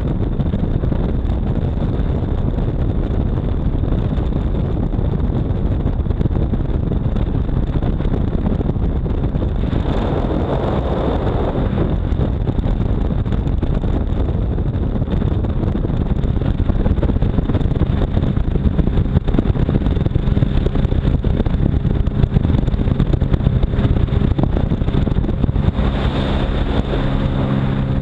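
A jet ski's engine running under way, with wind on the microphone. The noise surges about ten seconds in, and near the end steadier engine tones come through.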